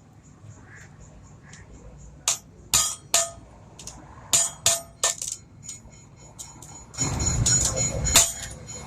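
Hammer striking metal in a run of sharp, ringing blows, irregularly spaced. About seven seconds in, a louder steady rumbling noise begins underneath.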